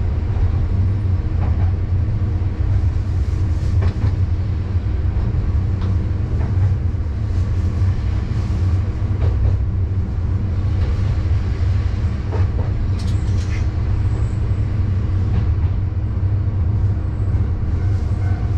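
Diesel railcar running along the track, heard from the driver's cab: a steady low engine drone and rolling wheel noise, with occasional clicks of the wheels passing rail joints.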